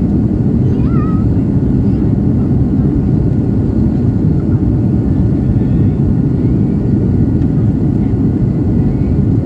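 Airliner jet engines heard from inside the passenger cabin at takeoff power: a loud, steady low roar of engine and airflow noise.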